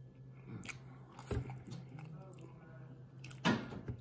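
A person chewing a mouthful of food, with two sharp clicks, the louder one about three and a half seconds in, over a low steady hum.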